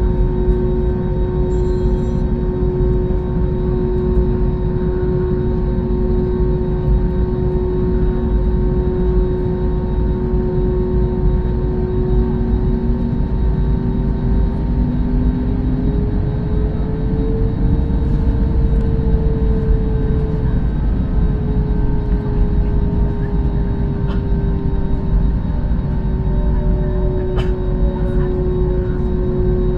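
Airbus A321neo's Pratt & Whitney geared turbofan engines running at low thrust, heard from inside the cabin: a steady deep rumble with a humming tone that rises slightly about halfway through and settles back, as thrust is added to get the jet rolling for taxi.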